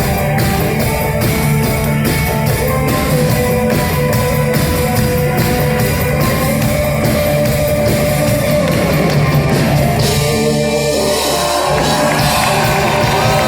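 Live pop-rock band playing with electric guitar and drum kit over a steady beat. About ten seconds in, the beat gives way to held, ringing chords.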